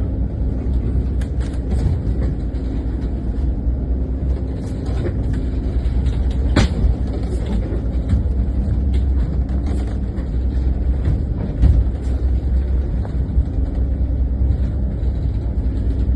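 An engine running steadily, a low drone, with a single sharp click about six and a half seconds in.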